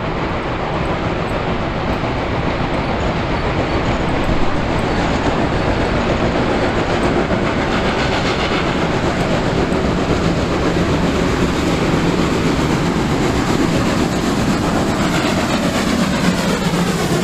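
Loaded limestone freight train rolling past, its wagons clattering and rumbling steadily over the rails.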